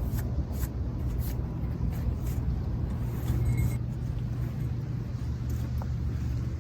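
Steady low rumble of surf on the shore, with a few sharp crackles from a wood campfire in the first couple of seconds.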